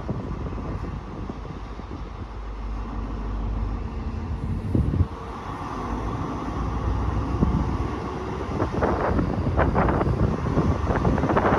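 Diesel train running past. There is a steady low rumble, a rising note building from about halfway, and a run of irregular clacks from the wheels over the track in the last few seconds. Wind buffets the microphone.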